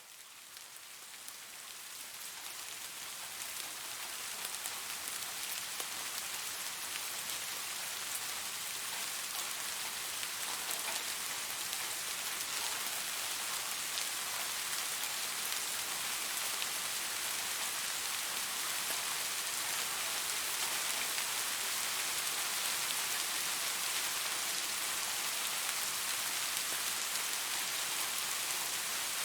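Steady rain falling on leaves: an even hiss with individual drops ticking through it. It fades in over the first few seconds, then holds steady.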